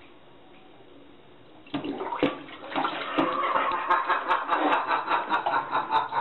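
Toilet flushed about two seconds in: water rushes loudly into the bowl.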